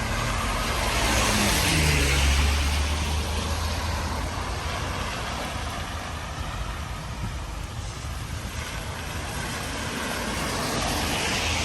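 A car passing on a wet street: its tyres hiss and its engine note drops as it goes by, over a steady hiss of rain. Another vehicle comes up near the end.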